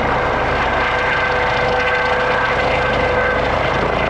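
Aircraft running loudly and steadily: a dense engine rush with a steady high whine on top.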